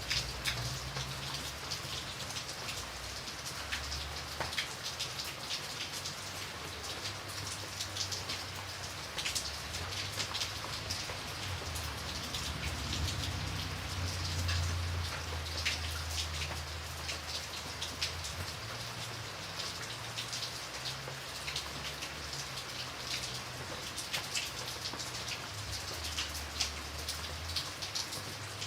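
Steady rain, with many sharp, close drop strikes on a surface over an even hiss of falling rain and a low, uneven rumble underneath.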